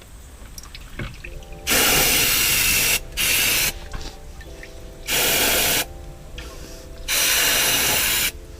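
Pressurised spray hissing in four bursts, the first and last about a second long and the middle two shorter.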